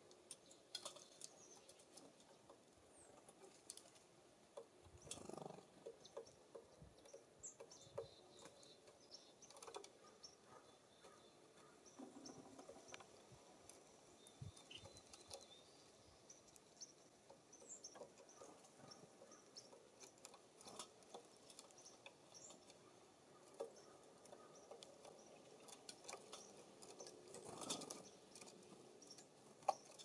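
Faint, scattered taps and scratches of a small songbird pecking and hopping on a wooden feeder, with a few faint high chirps.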